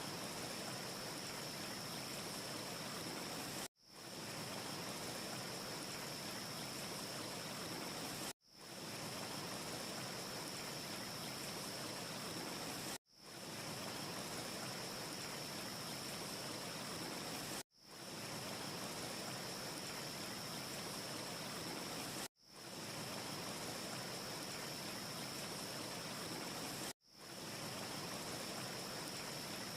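Steady rushing hiss with a faint high whine running through it. About every four and a half seconds it cuts out suddenly and fades back in, six times over: the seams of a short ambience sample looped over and over.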